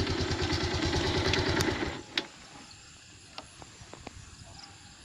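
Motorcycle engine running with a steady rapid pulse, stopping abruptly about two seconds in. A few scattered sharp clicks follow over a quiet background.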